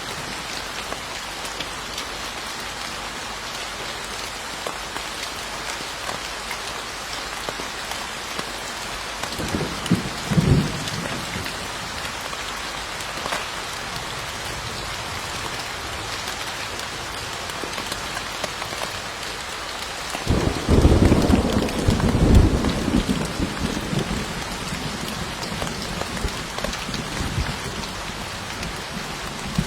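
Steady rain falling, with two low rumbles of thunder: a short one about ten seconds in and a longer, louder one about twenty seconds in.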